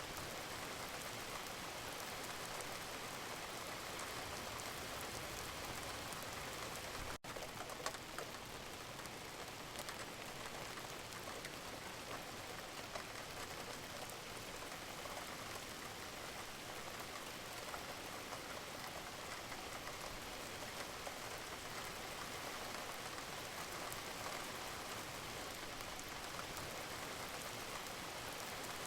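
Steady rain falling on a hard surface, a constant hiss flecked with many individual drop ticks. The sound cuts out for an instant about seven seconds in, then carries on unchanged.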